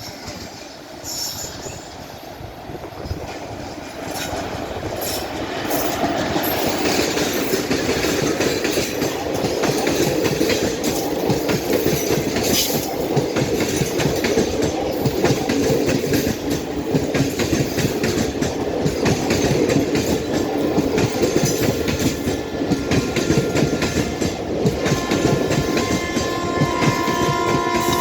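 Express train passing at speed: it grows louder over the first six seconds, then a dense rush of wheels clattering over rail joints. The horn starts sounding near the end.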